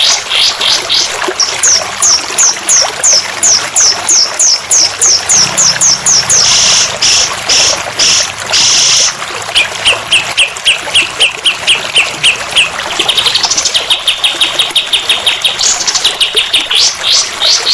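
A recorded songbird training song ('masteran') played loud: fast, even trains of short repeated chirps, with a stretch of harsh buzzy notes midway, over a steady hiss of trickling water.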